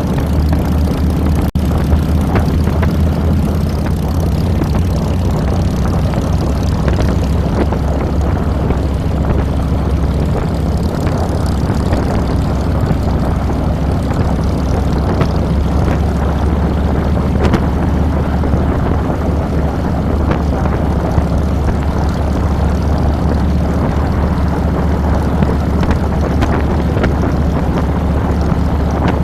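2007 Harley-Davidson Fat Boy's V-twin engine running steadily under way, a loud continuous low drone, heard from a handlebar-mounted camera.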